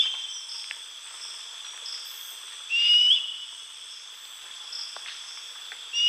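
Night-time field recording: a steady high trilling of crickets and other insects, over which a bird gives a short rising whistled call three times, about every three seconds.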